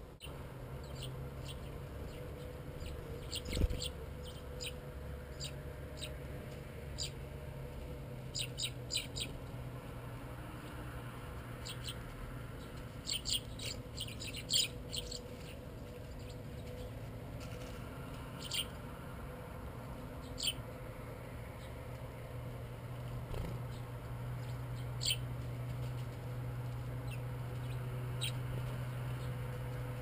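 Short, high chirps of small garden birds, heard singly and in quick clusters, over a steady low background hum, with one thump about three and a half seconds in.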